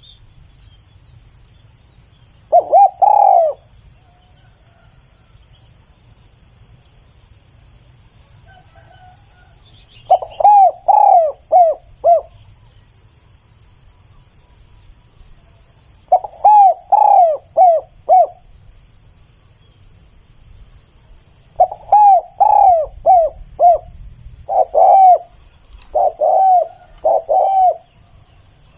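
Spotted dove cooing loudly and close, in phrases of two to five short coos repeated every few seconds, with a longer run of phrases in the last third. A steady high insect trill runs faintly underneath.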